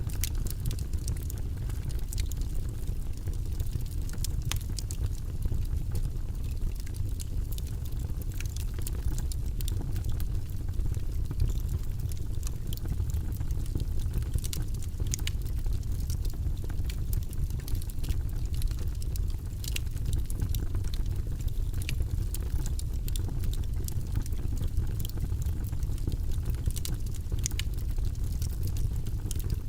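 Wood logs burning in a fireplace: frequent small crackles and pops scattered over a steady low rumble of the flames.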